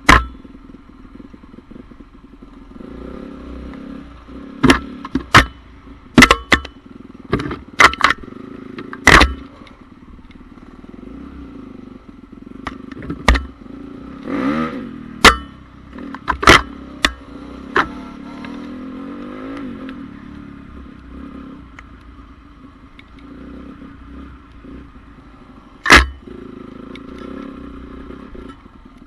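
Honda CRF450R motocross bike's single-cylinder four-stroke engine running, with a bike passing about halfway through, its pitch rising then falling. Sharp knocks punctuate it, a series of them in the first half and one more near the end.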